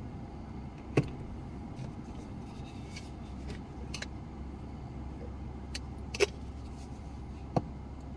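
Car driving, heard from the cabin: a steady low rumble of road and engine noise, with a few sharp clicks and rattles. The loudest clicks come about a second in and about six seconds in.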